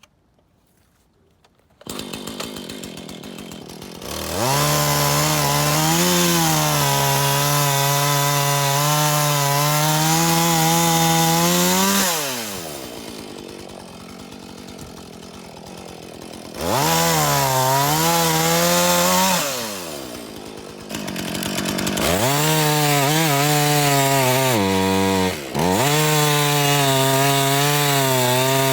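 Husqvarna Rancher two-stroke chainsaw coming in at idle about two seconds in, then run at full throttle through three cuts in logs, its engine note sagging and recovering under load and dropping back to idle between cuts. A brief dip in the last cut.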